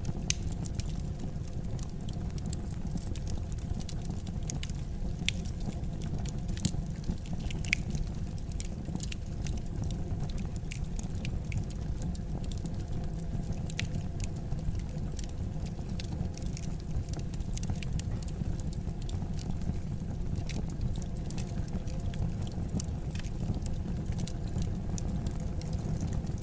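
Wood fire burning in a fireplace: a steady low rumble of the flames with scattered sharp crackles and pops, a few louder ones about six to eight seconds in.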